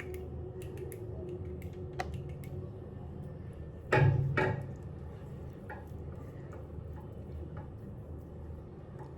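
Small clicks and taps of skincare bottles and containers being handled, with a louder double knock about four seconds in, over a low steady room hum.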